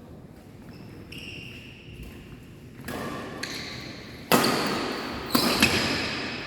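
Badminton being played in a sports hall: short shoe squeaks on the court floor, then sharp racket hits on the shuttlecock, two of them in quick succession after about five seconds, each echoing in the hall.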